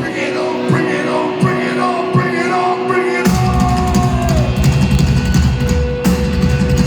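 Rock band playing live in an instrumental passage: drums and guitar at first, then the bass and kick drum come in heavily about three seconds in and the full band plays on.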